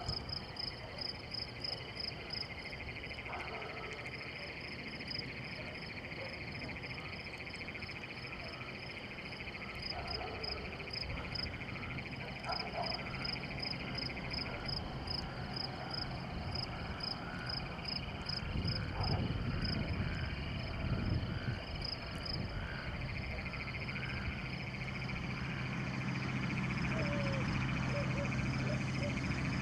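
Night chorus of frogs and insects: a quick, even pulsing of high chirps over a steady trill. A low rumble comes in about two-thirds of the way through, and a steady low hum near the end.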